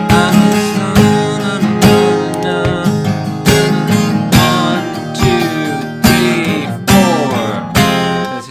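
Acoustic guitar, capoed at the first fret, strummed in a steady rhythm, with a strong stroke about every second and lighter strokes between, moving through a chord change from D to B7.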